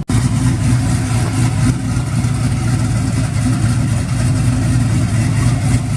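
A vehicle engine running steadily with a low exhaust note, starting abruptly after a cut.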